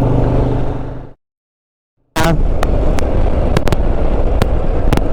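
Motorcycle riding audio through a helmet-mounted action-camera mic: a steady engine hum under wind and road noise that cuts out to total silence for about a second. When it returns, the wind and road noise carries a string of sharp crackles, which the riders blame on the mic plug or cord moving at high speed.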